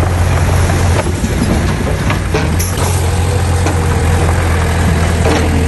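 Heavy diesel engine of a dump truck or small bulldozer running steadily, with a few short knocks over it.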